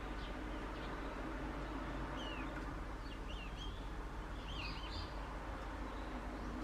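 Wild bird calling with short, faint chirps in small clusters, over a steady low background rumble.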